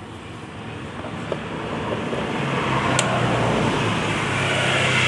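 A motor vehicle's engine and road noise, growing louder over the first few seconds and holding with a steady low hum, with one sharp click near the middle.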